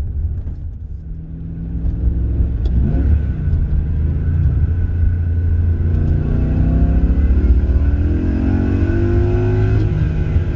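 BMW E23's swapped M60 V8 under acceleration. The engine note eases off in the first second or two, rises briefly about three seconds in, then climbs steadily for several seconds before dropping back near the end.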